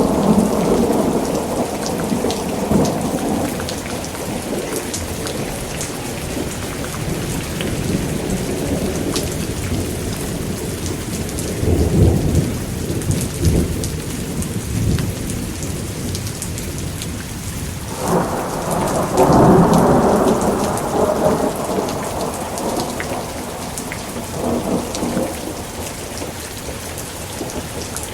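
Thunderstorm: steady heavy rain hissing and pattering, with rolling thunder rumbling in several swells, the loudest a little past the middle and a smaller one near the end.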